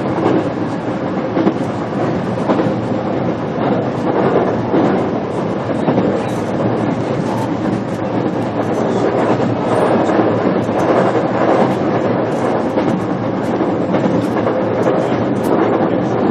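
Interior running sound of a JR Kyushu BEC819 series DENCHA electric multiple unit under way: a steady rumble of wheels on rail, with occasional clacks from the track.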